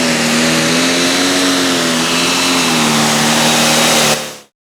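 A super stock pulling tractor's diesel engine running hard at high revs, loud and steady with a slight waver in pitch. It cuts off quickly near the end.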